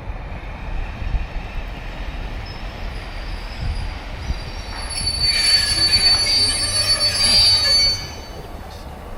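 A passing train rumbling low over the rails, with a high, steady wheel squeal that swells loud about five seconds in and stops suddenly near the end.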